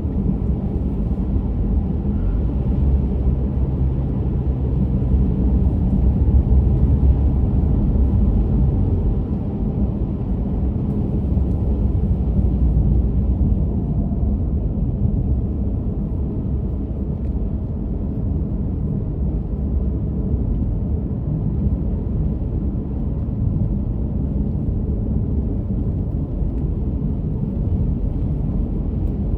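Road and tyre noise inside a moving car's cabin: a steady low rumble, slightly louder a few seconds in.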